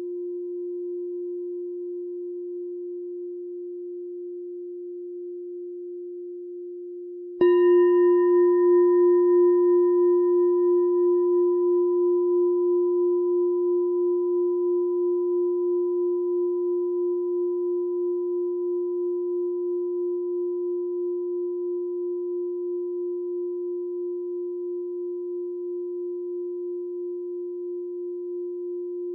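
Meditation bell struck once about seven seconds in, then ringing with a long, slowly fading low tone that wavers in a slow pulse. The ring of the previous strike is still sounding at the start.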